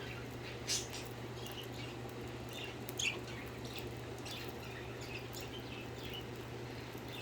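Budgerigars chirping in short, scattered chirps, the loudest about a second in and again about three seconds in, over a steady low hum.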